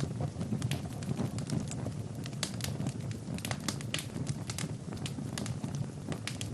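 Fire crackling in a fireplace: irregular sharp pops and snaps over a low, steady rumble of burning.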